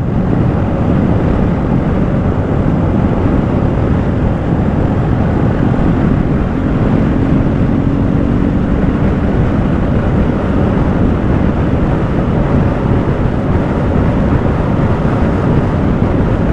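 BMW motorcycle with sidecar under way at a steady speed: the engine running evenly under a heavy wash of wind noise on the microphone.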